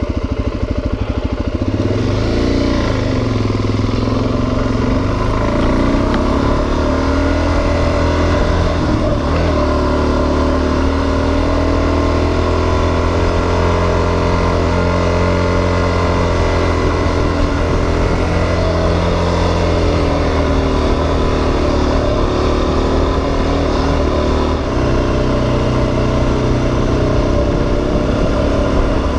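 Suzuki DR-Z400 dual-sport motorcycle's single-cylinder four-stroke engine running under way, its pitch rising and falling with throttle and gear changes.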